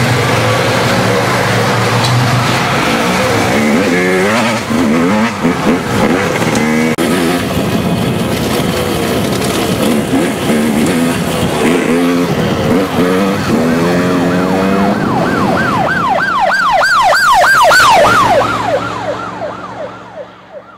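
Engine noise with shifting pitch. About three quarters of the way in, a siren takes over, wailing up and down several times a second, then slowing and fading out near the end.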